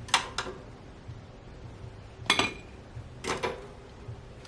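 Short clinks and clatters of kitchen utensils against dishware or the toaster-oven tray: a quick double clink at the start, then single knocks about two and three seconds in.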